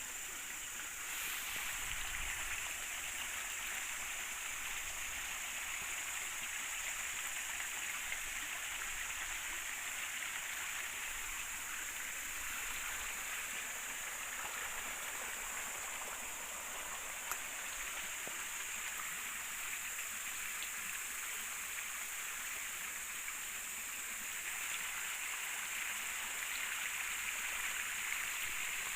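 River water flowing steadily, with a constant high hiss above it.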